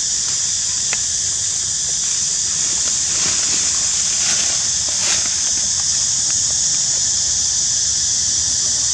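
Steady, high-pitched insect drone, a cicada chorus, with a slight swell in the middle.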